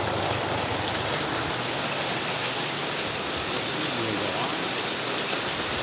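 Steady, continuous rain falling, an even hiss.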